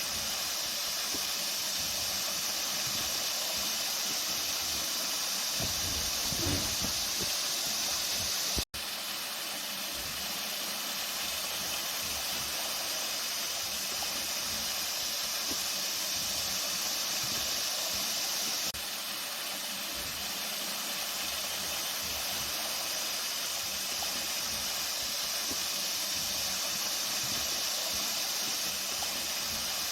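Flowing water rushing steadily with an even hiss, briefly cut out once about nine seconds in.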